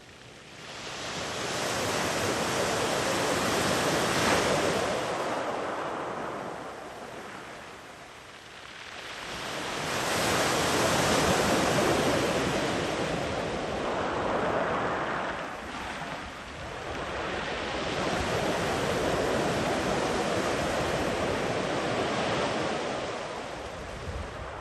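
Ocean waves breaking and washing far up the beach one after another, the surf noise swelling and ebbing. One wave builds about a second in and fades away. The next surges in about ten seconds in and runs on long before dying down near the end.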